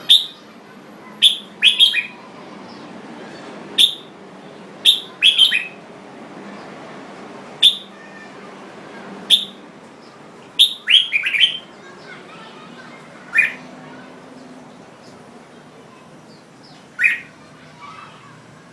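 Red-whiskered bulbul singing: short, loud chirping phrases every second or two, some coming in quick clusters of two or three, over faint steady background noise.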